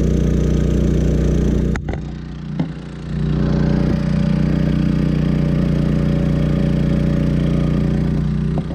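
Champion 3400-watt dual fuel inverter generator running steadily under near-full load in economy mode, a constant engine hum. About two seconds in there is a click and the sound dips for about a second before returning to full level.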